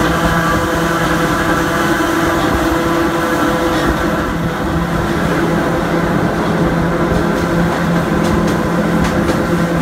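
Hakone Tozan Railway Moha 1 electric railcar running, heard through an open window: the steady hum and whine of its nose-suspended traction motors and gears over wheel-on-rail rumble. The higher noise thins about four seconds in as the car leaves a tunnel.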